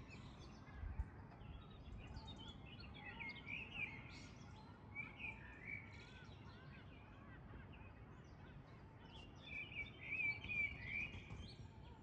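Faint birdsong: short chirping phrases in a cluster a few seconds in and again near the end, over a steady low background noise.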